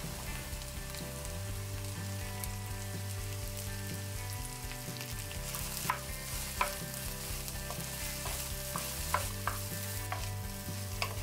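Sliced okra and shallots frying in oil in a pan, a steady sizzle as they are stirred with a wooden spoon. From about six seconds in there are a few sharp clicks of the spoon against the pan.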